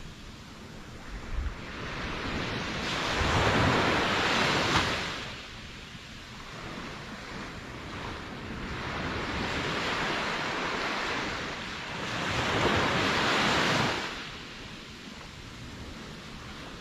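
Ocean waves washing in and drawing back, a steady hiss that swells three times, loudest about four seconds in and again near the end.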